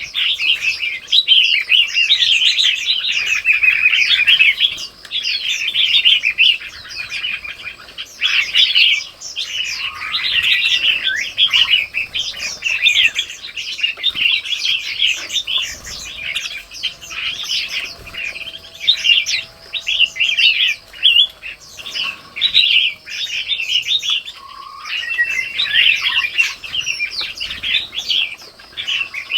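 Many small birds chirping continuously, a dense chorus of short high-pitched calls overlapping with hardly a pause.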